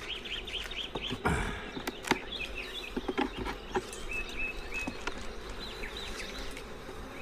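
Honeybees buzzing around an open hive, with a few sharp knocks scattered through it.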